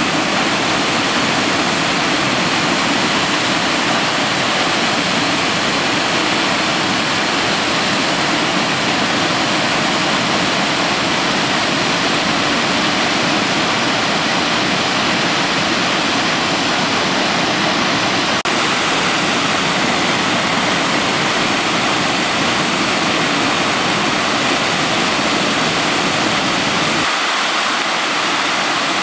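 Waterfall, water rushing in a loud, steady roar of noise; its deepest part drops away about two seconds before the end.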